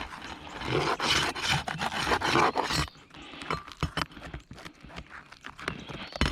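Brittle roof shingles scraping and crackling as they are pried up and worked loose to get at the nails underneath. The scraping is loudest for the first three seconds, then gives way to quieter scattered clicks.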